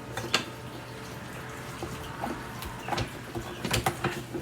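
Scattered light clicks and knocks of parts of a vintage Hoover upright vacuum cleaner being handled during assembly, with a cluster near the end, over a steady low hum.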